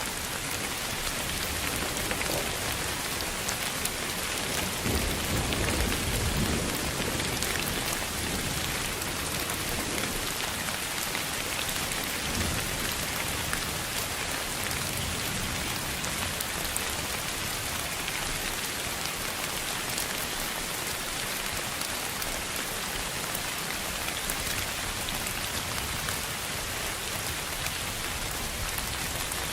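Steady rain noise, an even hiss across the whole range with a fine patter of drops, sold as pink noise for sleep. A low rumble swells briefly about five seconds in.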